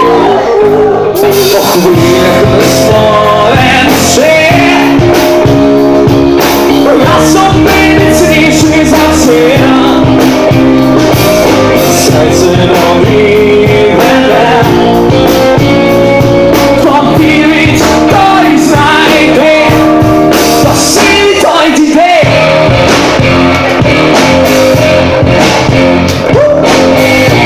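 Indie rock band playing live: guitars, bass and drums playing loudly and continuously, with a voice singing over them.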